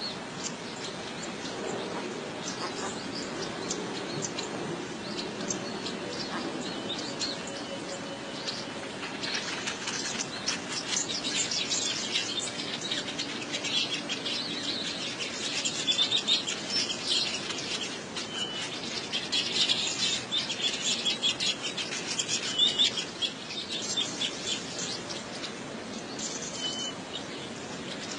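Birds chirping busily with a flutter of wings.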